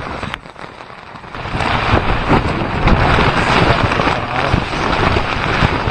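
Heavy storm rain and wind beating on a tent, heard from inside; a dense, loud patter that swells sharply about a second and a half in and keeps up.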